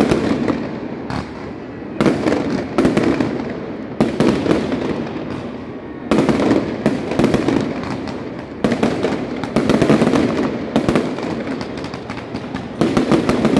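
Aerial fireworks bursting overhead. A loud bang comes about every two seconds, each followed by dense crackling.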